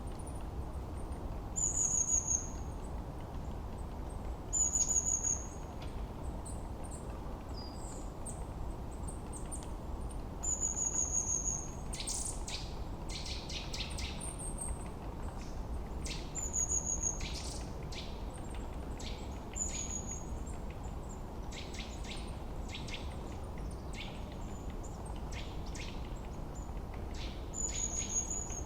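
Forest birdsong. One bird repeats a short, high, slightly falling phrase every few seconds. From about the middle, another adds bursts of quick chattering notes, all over a steady low background hiss.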